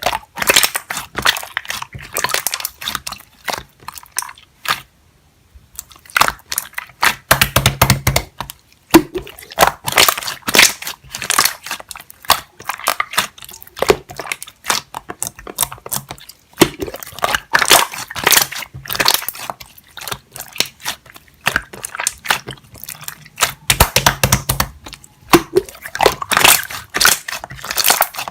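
Clear slime being squished and pressed by hand: a rapid run of sticky clicks and small pops, pausing for a moment about five seconds in, with a few duller squelches now and then.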